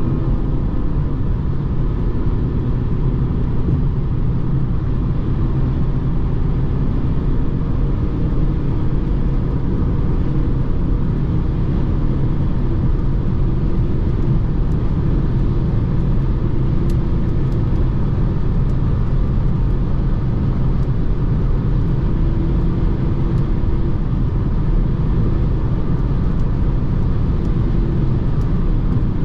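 BMW 220d xDrive Gran Coupe's four-cylinder diesel and tyres running at a steady cruise: an even, low road rumble with no gear changes or sudden events.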